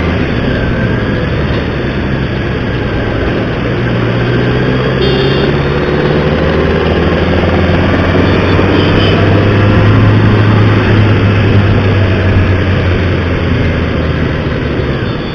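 Motorcycle engine running with a steady low note, growing somewhat louder around the middle and easing off near the end.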